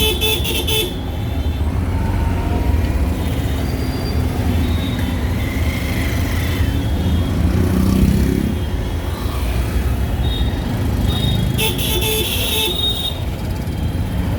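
Ride in an auto-rickshaw through city traffic: a steady low engine and road rumble, with horns honking, a short blast at the start and a longer one about twelve seconds in.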